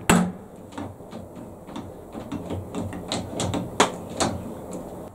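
A sharp hammer tap on a lathe part, the second of two, followed by a run of small clicks and knocks from the part being handled and fitted, with two sharper knocks near the end.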